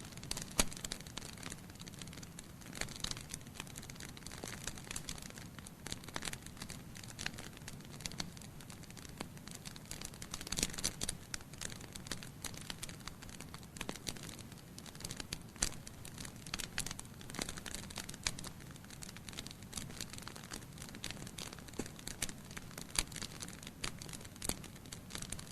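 Wood fire crackling in a fireplace: irregular sharp pops and snaps of burning logs, some louder than others, over a soft steady rush of the flames.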